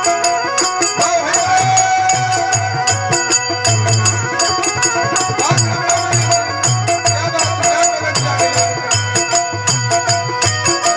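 Rajasthani folk bhajan music: a sustained melody line over a steady rhythm of hand drum and jingling percussion.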